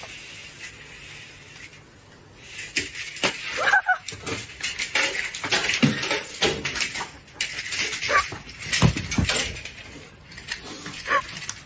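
Irregular clattering and knocking, many sharp hits in quick succession, with a few short high-pitched squeaky cries among them.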